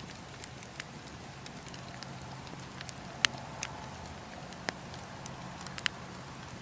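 Bonfire crackling, with scattered sharp pops, the loudest a little past three seconds in and near the end.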